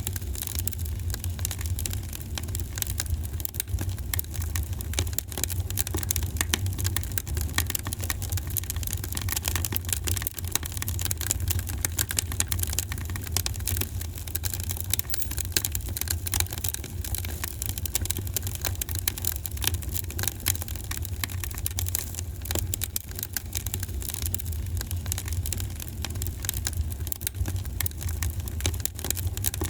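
Wood fire crackling: many small sharp pops and snaps at an irregular rate over a steady low rumble.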